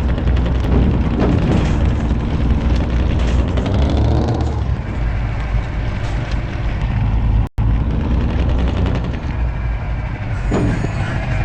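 Truck engine running hard with a deep steady drone, revving up in pitch about four seconds in. The sound cuts out for an instant about seven and a half seconds in.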